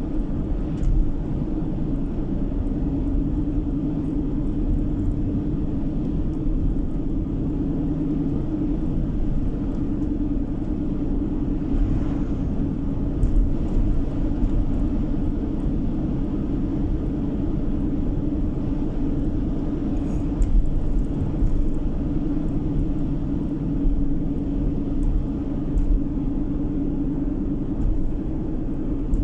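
Road noise inside a moving car's cabin: a steady drone of engine and tyres with a constant hum and low rumble, and a few faint knocks from bumps in the road.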